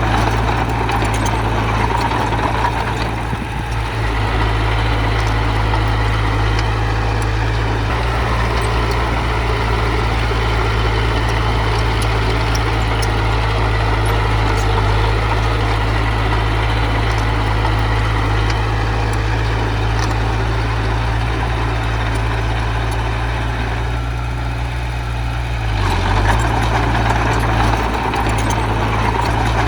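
Heavy machine's diesel engine running steadily with a deep, even hum, easing off briefly twice, a few seconds in and again near the end.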